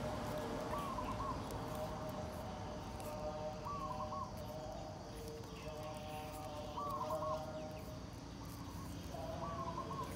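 A bird calling in the background: a short wavering call repeated about every three seconds, over a steady outdoor noise floor.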